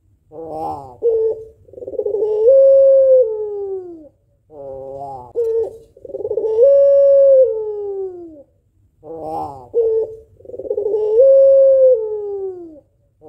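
White pelung-type ringneck dove (puter), a female, cooing three times in a regular repeating call. Each call opens with a short stuttering burst, then draws out into a long, level coo that glides down in pitch at the end.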